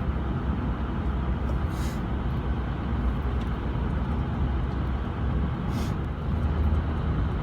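Pickup truck engine and road noise heard from inside the cab while driving slowly: a steady low rumble, with two brief hisses about two and six seconds in.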